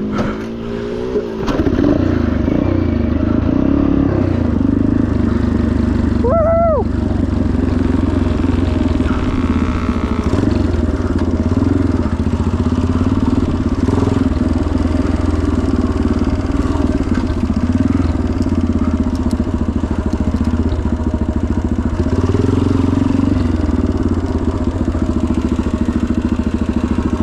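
1977 Yamaha TT500's single-cylinder four-stroke engine pulling away, its pitch climbing over the first second or two, then running hard and steady under load as the bike is ridden. A brief high pitched call rises and falls about six seconds in.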